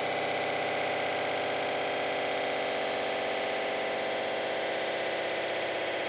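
Power electronics harsh noise: a dense, unbroken electronic drone of many stacked tones that waver quickly, with no beat, pauses or hits.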